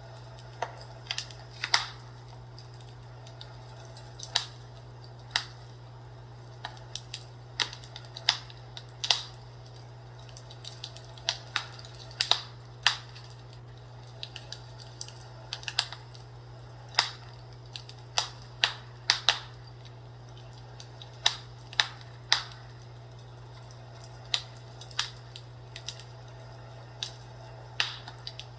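Fireplace crackling: irregular sharp pops and snaps of burning wood, some much louder than others, over a steady low hum.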